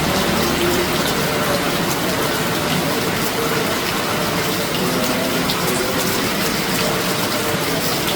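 Very heavy rain pouring down steadily.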